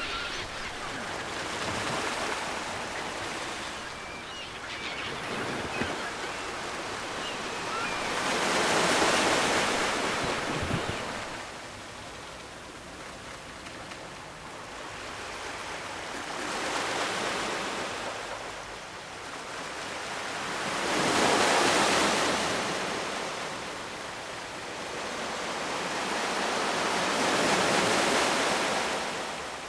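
Ocean surf: waves breaking and washing up the shore in slow surges of rushing noise every several seconds, the loudest about a third of the way in and again about two thirds of the way through.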